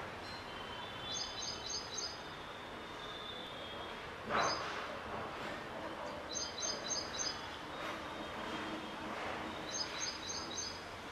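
A bird calling in groups of four quick, high, evenly spaced chirps, three times, over steady background noise. A short loud rustle of handling, about four seconds in, is the loudest sound.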